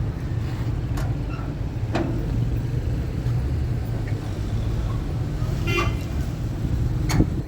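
Steady low rumble of a motor vehicle, with a few sharp clicks and a brief pitched sound near the end.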